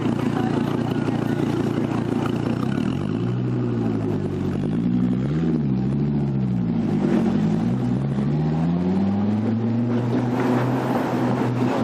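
A sports car's deep engine running steadily, then from about three seconds in revving up and down several times as it pulls away, over steady city traffic noise.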